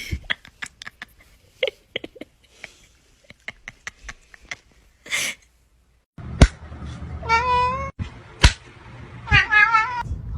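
A cat meowing twice in the second half, each a long wavering meow. Before them come a run of sharp clicks or taps and a few loud knocks.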